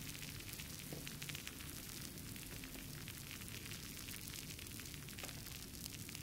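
Fireplace wood fire crackling: a dense run of small quick pops and snaps over a low steady rumble of the flames.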